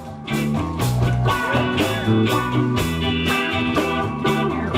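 Live band music: a steady drum beat under a bass line and melodic instruments, the instrumental lead-in to a song, coming back in after a brief drop at the very start.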